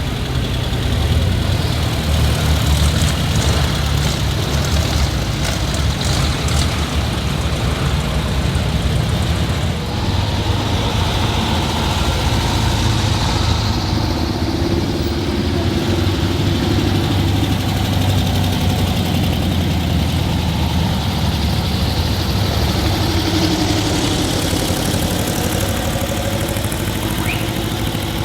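Old car engines running steadily at idle, a continuous low rumble, with a few slow rises and falls in engine pitch midway.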